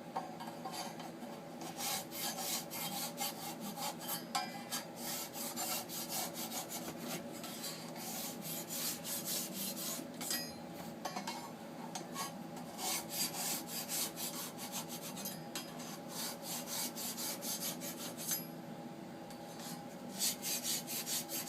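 A sharpening tool rasping back and forth against the inside edges of a metal sampler's cutting flutes in quick, repeated strokes, pausing briefly twice, about halfway through and near the end, as it moves on to the next flute. A faint steady hum sits underneath.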